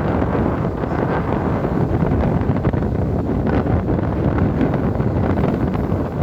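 Strong wind blowing across the microphone: a steady, loud rumbling noise with no clear pauses.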